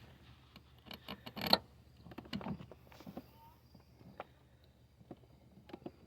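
Irregular small clicks and knocks of tools and parts being handled during brake repair work, the loudest about a second and a half in.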